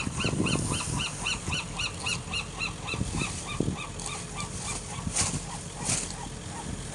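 A bird calling in a fast series of short, repeated notes, about four a second, slowing and fading out about four seconds in.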